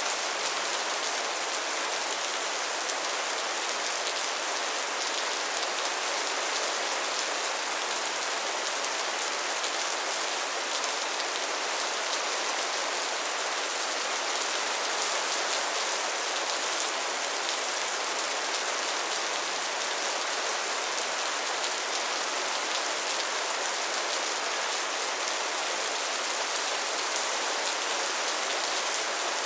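Soft, steady rain falling, an even patter of drops with no let-up.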